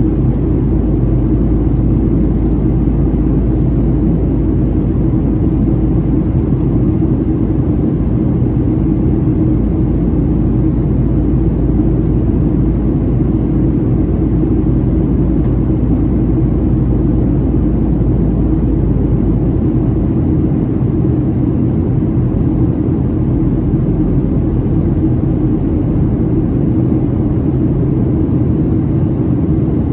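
Steady cabin roar inside a Boeing 737-700 in descent: its CFM56-7B turbofans and the airflow over the fuselage make a constant deep rumble with a low hum. The deepest rumble eases a little about twenty seconds in.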